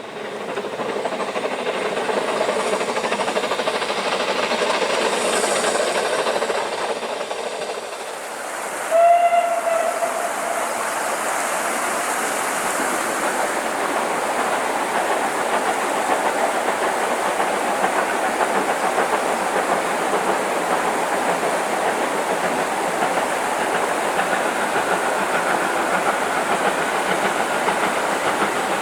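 Steam locomotive working with a steady hiss of steam, with one short whistle blast about nine seconds in, the loudest moment.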